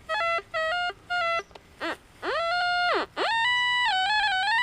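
Metal detector target tones: three short beeps, a brief chirp, a longer tone that rises and falls, then a sustained higher tone that wavers in pitch. It is ringing up loud and clear over a buried coin, a signal the detectorist reads as silver.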